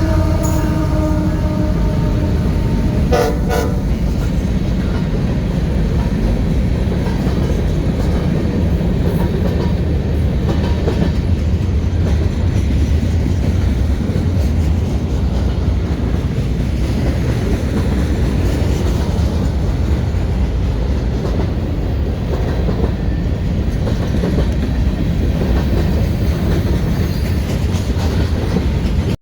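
An Amtrak passenger train passing close by: a steady low rumble of wheels on rail. A horn note fades out at the very start, and a short horn blast sounds about three seconds in.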